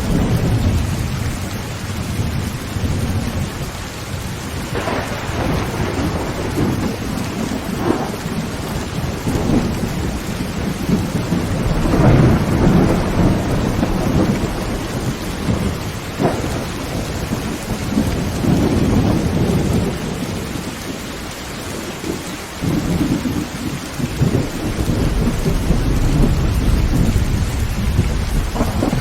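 Heavy rain drumming steadily on a tin tent roof, with thunder rolling several times; the loudest swell comes about twelve seconds in, and a deep low rumble builds near the end.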